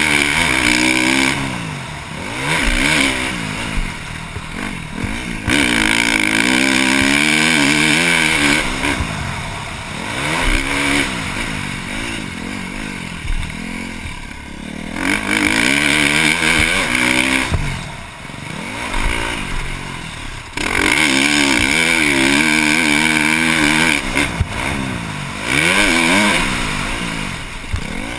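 Single-cylinder four-stroke engine of a KTM 350 SX-F motocross bike with a Yoshimura exhaust, ridden hard round a track: the throttle repeatedly opens to high revs, the pitch climbing through the gears, then shuts off and falls away into the next section, about half a dozen times.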